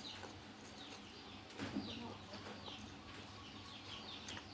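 Small birds chirping over and over in short falling notes, with a brief hissing burst about a second and a half in.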